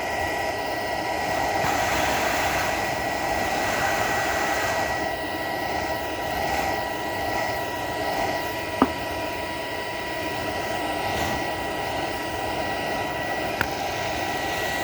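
A vacuum cleaner's motor running steadily: a constant whine over rushing air, with a sharp click about nine seconds in.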